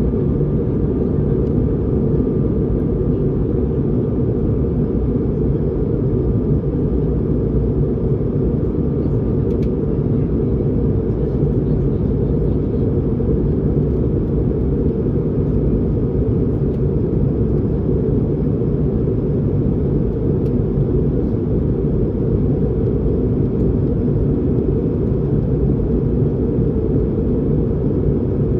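Cabin noise inside an Airbus A220-300: a steady low rumble of engines and airflow, with a faint steady high tone for the first few seconds.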